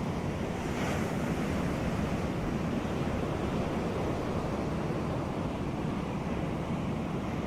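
Sea waves washing on a beach: a steady surf wash, with a brief hiss of breaking water about a second in.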